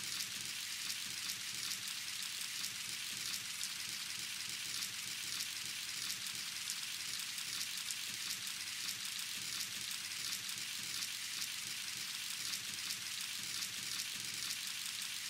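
Rain ambience synthesised by iZotope RX 9's Ambience Match in complex mode from a rain background and played soloed without the voice: a steady, hissy rain wash with fine, irregular drop patter.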